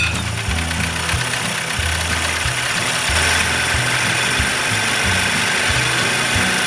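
1975 Evinrude 40 hp two-cylinder two-stroke outboard running steadily after being started, its ignition points freshly filed and cleaned; it sounds better.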